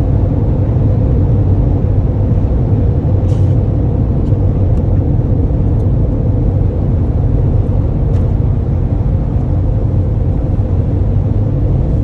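Steady low rumble of a tour coach's engine and tyre noise, heard from inside the coach's cabin while it drives along, with a few faint ticks.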